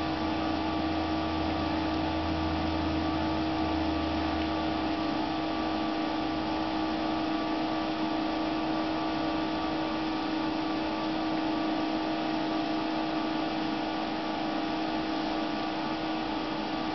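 Steady electrical hum and hiss with a few fixed hum tones, the strongest mid-pitched. A low drone underneath fades out about six seconds in.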